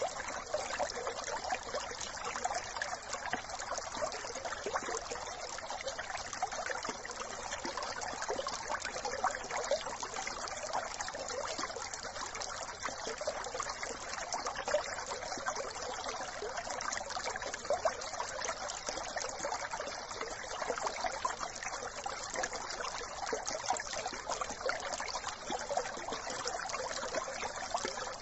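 Small brook trickling and babbling steadily, an even flow of water with constant fine splashing.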